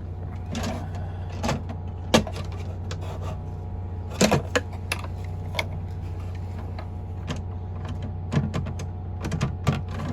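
Motorhome cabinet drawers being pulled out and handled: scattered knocks, clunks and short scrapes, some in quick clusters near the end, over a steady low hum.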